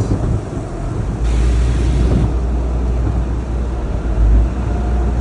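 Automatic car wash rinse heard from inside the car: water spraying against the body and windows over a deep, steady rumble that swells about a second in, with a burst of hissing spray lasting about a second.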